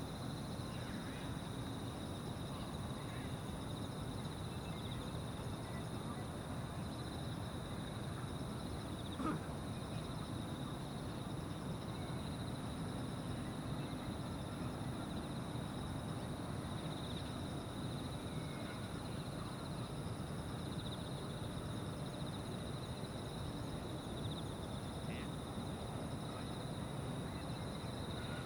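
Evening insect chorus: a steady, finely pulsing trill with a second, higher continuous buzz, over an even low rumble of outdoor ambience. A single short knock about nine seconds in.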